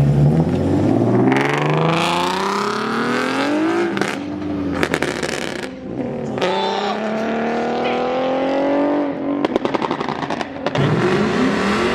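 A car's engine accelerating hard away, its pitch climbing steeply through one gear, breaking off at a gear change, then climbing again through the next. A short rattle of sharp pops comes about ten seconds in, and another climb starts near the end.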